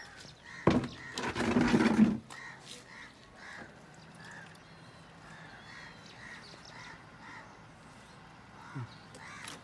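A bird calling over and over, short calls about two a second. About a second in, a louder burst of noise lasts about a second and a half.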